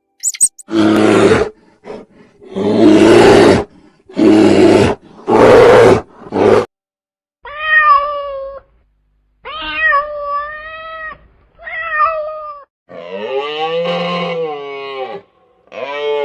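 Animal calls: four harsh, noisy roars of about a second each, then a series of five drawn-out meow-like cries, the last two rising and falling in pitch.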